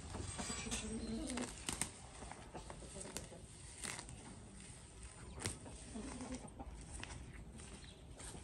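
A bird cooing low, twice: once just after the start and again about six seconds in, among scattered sharp clicks and knocks.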